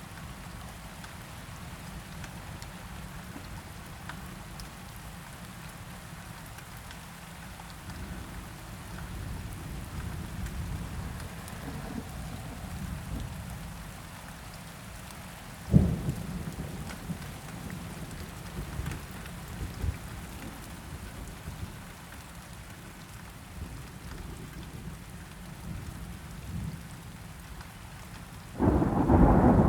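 Steady rain with thunder: low distant rolls, a sharp thunderclap about sixteen seconds in that trails off into rumbling, and a loud roll of thunder breaking in near the end.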